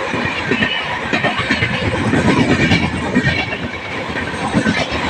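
Passenger train running at speed, a steady rush of noise with a fast, irregular clatter of wheels over the rails, a little louder about halfway through.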